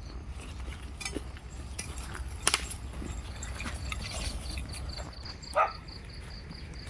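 Insect chirping in a steady, evenly pulsed high trill over a low wind rumble, with a sharp click about two and a half seconds in and a short, loud animal cry near the end.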